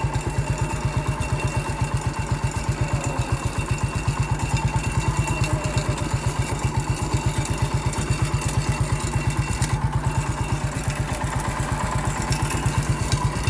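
Small garden tractor engine on the MF 14 dozer running steadily under load, with an even, fast low throb.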